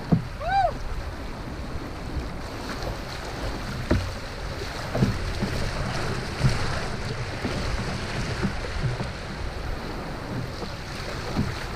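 Water rushing and splashing around a canoe running a riffle, with wind on the microphone and a few brief knocks partway through.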